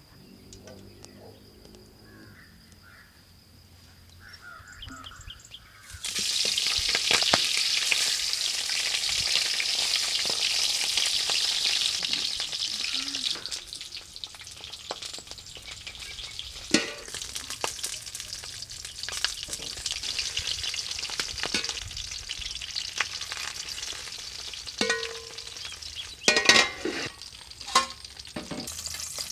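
Food frying in hot oil: a loud sizzle bursts up about six seconds in as the food hits the pan, then settles into steady frying. A spatula scrapes and knocks against the pan several times near the end as the food is stirred.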